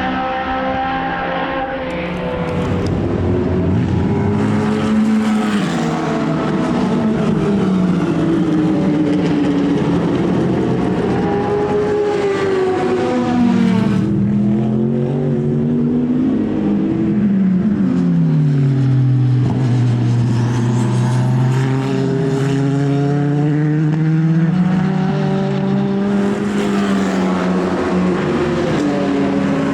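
Racing car engines at high revs, the pitch rising and falling again and again as the cars accelerate, shift and slow for corners, with more than one engine heard at once at times.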